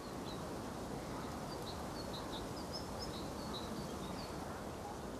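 Steady outdoor background noise with small birds chirping faintly: a scatter of short, high chirps through the first four seconds or so.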